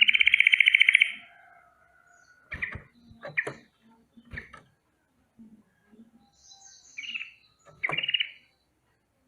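Sooty-headed bulbul (trucukan) giving a rapid rolling trill, its alarm call, which stops about a second in. Several short, sharp single calls follow.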